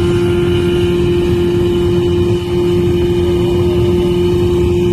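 Motorboat engine running at a steady speed, a constant hum over a low rumble.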